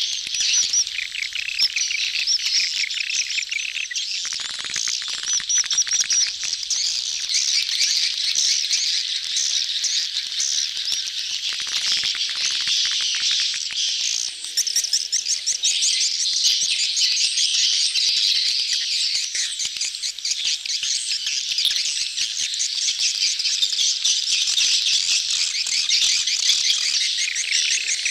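A crowd of edible-nest swiftlets twittering and chattering all at once in a dense, unbroken stream of rapid high chirps. It is a swiftlet lure recording of a colony in courtship.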